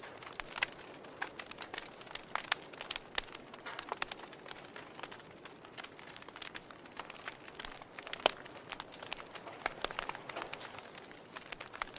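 Wood campfire crackling, with irregular sharp pops over a soft steady hiss.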